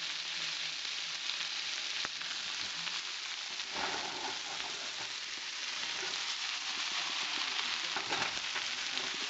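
Chicken thigh pieces, onions and carrots sizzling steadily in a hot frying pan, with louder clattering as the food is moved about in the pan about four seconds in and again near eight seconds.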